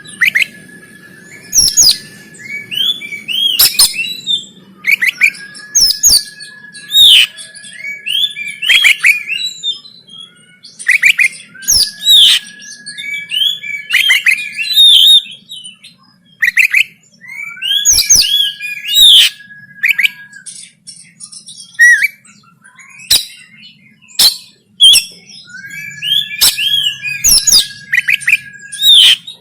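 Oriental magpie-robin singing loudly in repeated phrases about every six seconds. Each phrase has rapid sweeping high notes and sharp clicks, with a long steady whistle held under them.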